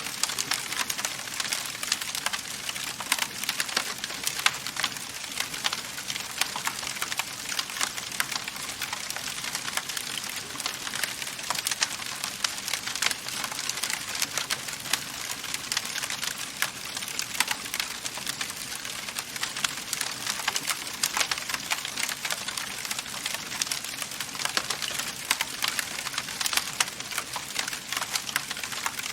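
Wood fire crackling steadily in a fireplace: a dense run of small pops and snaps over a soft hiss.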